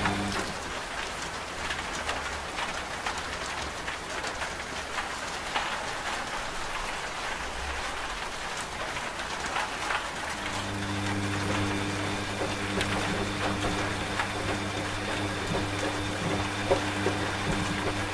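Steady rain pattering throughout, layered with a washing machine's low, steady motor hum. The hum cuts out just after the start and comes back about ten seconds in.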